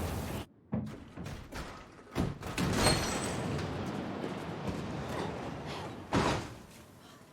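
Snowstorm wind cuts off abruptly about half a second in. A string of thumps and knocks follows, with loud door-like slams about two to three seconds in and again near the end, as the shelter is entered and shut.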